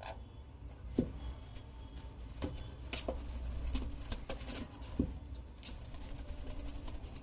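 Irregular light taps and scratches, as of a sun conure chick's beak and claws on a hard surface, with louder knocks about a second in and about five seconds in, over a low steady hum.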